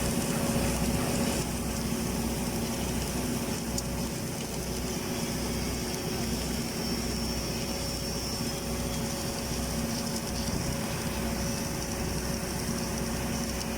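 Steady engine-like machinery drone with a constant hum underneath, unchanging throughout.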